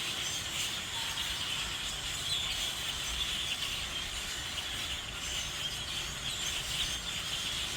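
A large flock of grackles calling from the treetops: a steady mass of high, squeaky chatter with no single call standing out.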